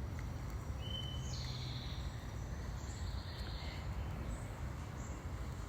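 Outdoor garden ambience: a steady low rumble with a few faint, thin high-pitched calls in the first half.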